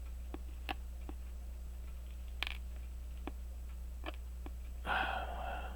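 Faint, scattered clicks of steel tweezers touching small watch parts and the bench, with a louder, noisier sound of about half a second near the end. A steady low electrical hum lies underneath.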